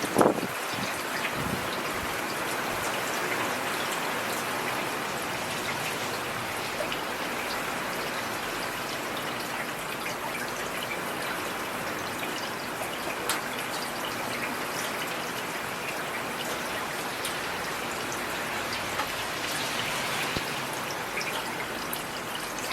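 Heavy rain falling steadily, an even hiss with scattered sharp drops. A brief low rumble and a knock come right at the start.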